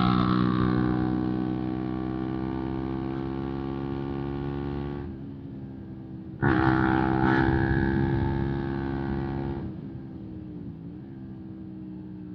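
Distorted electric guitar chords, each struck and left to ring out: one at the start fading over about five seconds, and another struck about six and a half seconds in that fades over about three seconds.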